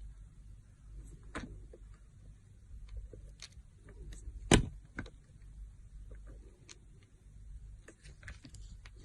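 Dry soap being cut, giving scattered crisp crunches and cracks, with one much louder sharp crack about halfway through.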